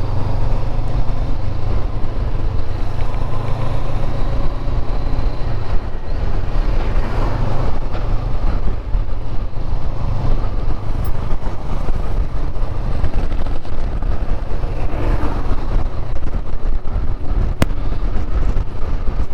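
Honda CB500X parallel-twin engine running steadily while riding on the road, with wind and road rush on the bike-mounted microphone.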